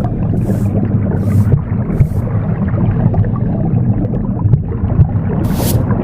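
Steady low whooshing rumble of recorded womb sounds, with short swishes of a broom sweeping over it: three in the first two seconds and one more near the end.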